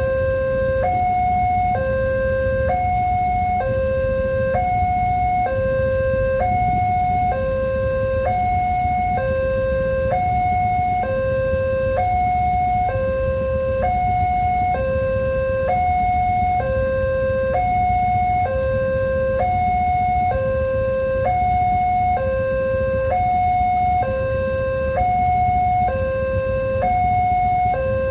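Indonesian railway level-crossing warning alarm sounding continuously, an electronic signal alternating steadily between a low and a higher tone, each held just under a second. A low rumble runs beneath it.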